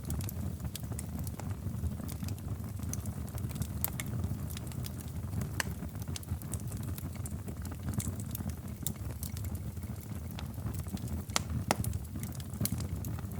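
Wood fire crackling in a fireplace: a steady low rumble of flames with scattered sharp pops and snaps, two louder pops in quick succession a little before the end.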